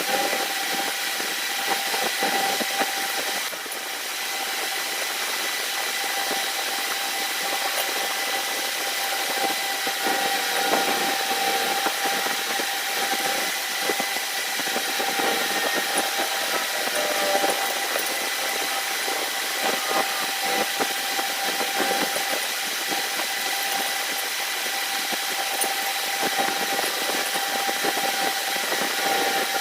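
A machine running steadily with a constant whine and irregular light clicks and rattles.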